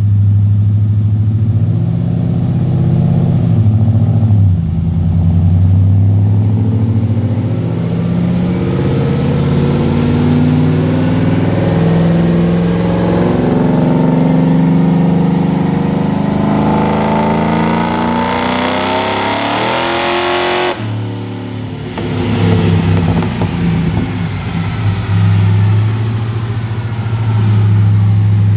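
Supercharged Mercury Marauder's 4.6-litre DOHC V8 through a Magnaflow exhaust, pulling hard with its pitch climbing to a peak about twenty seconds in. It then cuts off suddenly, followed by lighter, uneven revving at lower pitch.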